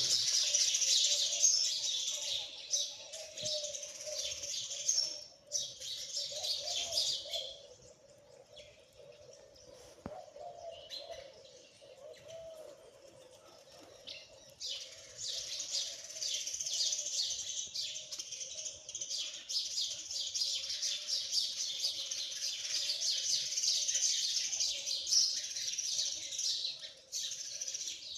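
A flock of small birds chirping rapidly and continuously, dying away for several seconds in the middle before starting up again, over a faint steady hum.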